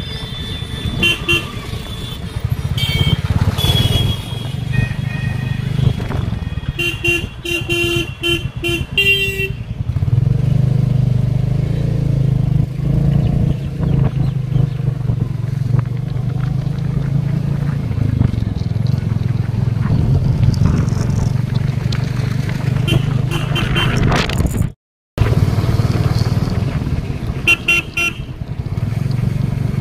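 Royal Enfield motorcycle engine running steadily on the move, with horns honking over it: a run of short toots about a third of the way in and more near the end. The sound drops out for a moment near the end.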